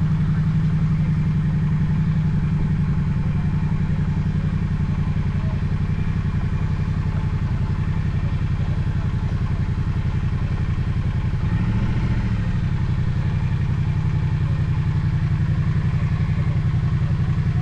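Motorcycle engine running steadily at a constant pitch, with one brief rise and fall in engine note about two-thirds of the way through.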